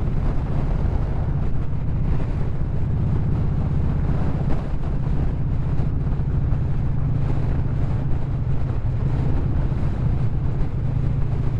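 Harley-Davidson V-twin motorcycle engine running steadily while cruising at a constant speed, with wind buffeting the microphone.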